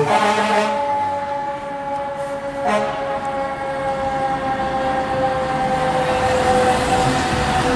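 Fire truck air horn sounding one long continuous blast, a chord of several tones that sags slowly and steadily in pitch.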